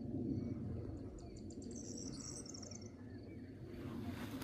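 Small songbird singing a quick, high, rapidly repeated trill for about a second and a half, starting about a second in, after a faint high pip repeating evenly, over a steady low rumble.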